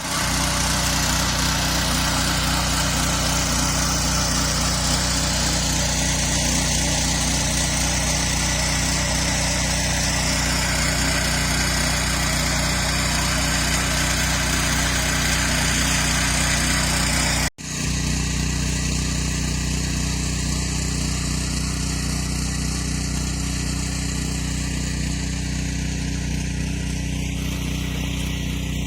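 Walk-behind tractor (motoblock) engine running steadily while working garden soil, with a momentary break about two-thirds through.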